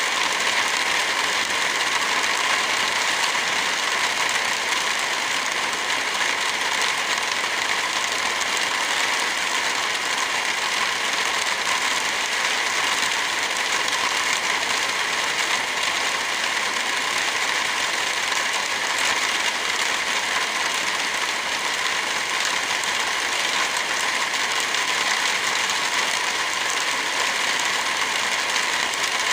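Steady rain falling, an even hiss, with a fire crackling in faint scattered pops.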